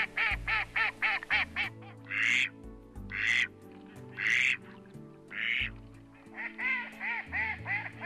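Background music with slow, sustained low notes, over birds calling: a quick run of short calls, about five a second, at the start and again near the end, and between them four single rasping calls about a second apart.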